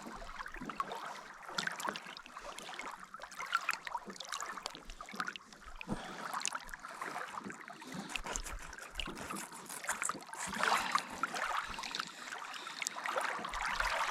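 A fillet knife working through the rib bones of a northern pike, small irregular clicks of cutting and handling, over faint moving water.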